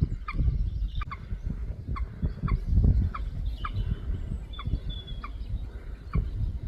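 Moorhens calling: short, sharp calls repeated about once a second, over a steady low rumble.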